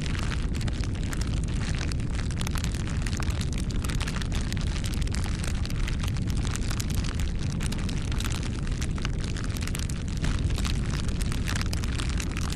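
Bonfire burning: a low, steady rumble of flames with dense, irregular crackles and pops of burning wood.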